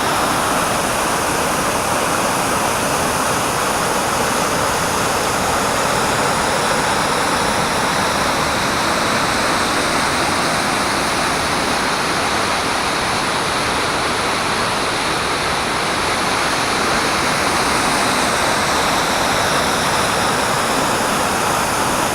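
Large brook waterfall swollen with snowmelt and rain, its raging water rushing loud and steady.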